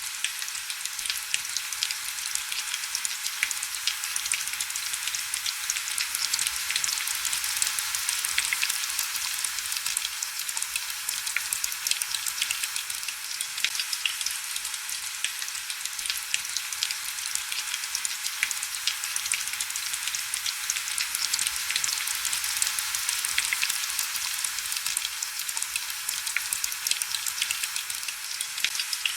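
Heavy rain falling steadily: an even hiss with a dense patter of sharp drop ticks, and almost no low rumble.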